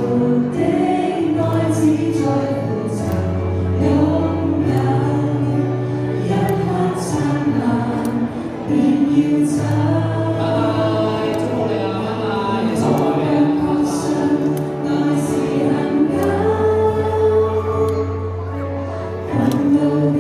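A choir singing a Chinese gospel hymn with instrumental accompaniment, held low notes changing every few seconds under the voices.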